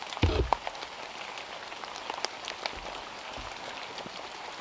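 Rain falling on forest foliage: a steady hiss with many individual drops ticking. A loud low thump comes just after the start and a weaker low rumble about three seconds in.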